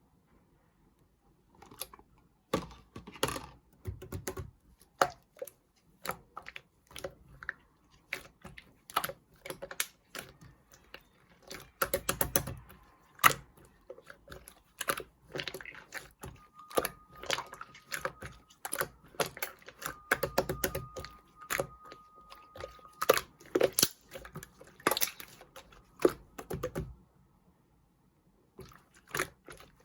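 Slime being pressed and stretched by hand, making a run of irregular sharp clicks and wet pops from the air bubbles left in it. The clicking stops for a couple of seconds near the end.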